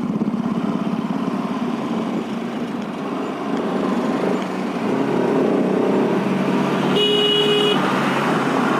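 Bajaj Pulsar RS 200's single-cylinder engine running steadily on an uphill climb, with road and wind noise. Near the end a vehicle horn sounds once, briefly.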